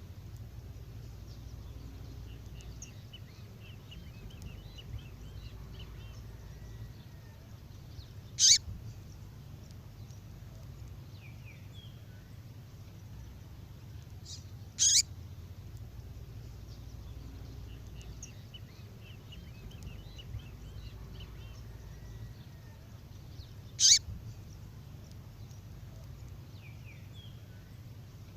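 Recorded female songbird call: three loud, sharp, very short calls several seconds apart, with faint thin trills in between, over a steady low hum.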